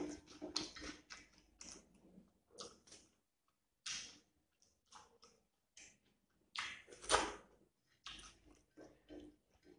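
Close-up chewing of a person eating rice and curry by hand, with fingers gathering food on a ceramic plate. The sounds come in short, irregular bursts with gaps between them, the loudest cluster about seven seconds in.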